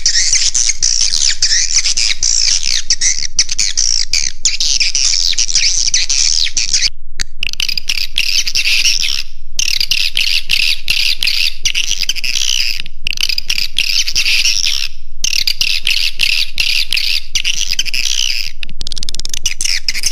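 A dense flock of swiftlets twittering and chirping without pause, played back as a roosting lure call for swiftlet houses. The chatter breaks off briefly several times, in near-silent gaps of a fraction of a second.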